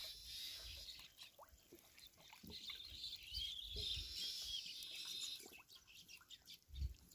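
Faint bird chirps, a few short arched calls clearest around the middle, over a light outdoor hiss. A few soft low knocks from hands working in shallow water, the strongest near the end.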